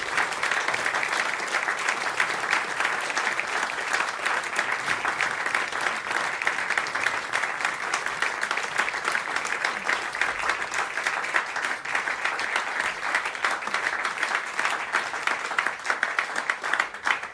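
Audience applauding steadily, a dense mass of hand claps with a few cheers, after a jazz piece.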